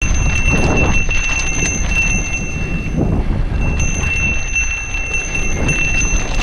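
Mountain bike riding on a dirt trail: a steady rumble of tyres and wind with constant small rattles and jingles from the bike, over a steady high-pitched whine.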